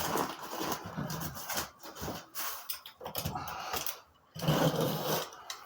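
Utility knife scoring and cutting through drywall, a series of irregular rasping strokes with a short pause about four seconds in.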